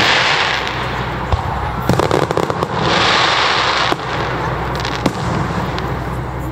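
Aerial fireworks bursting overhead: a cluster of sharp bangs about two seconds in and another bang near five seconds, between long stretches of crackling hiss from the bursting shells.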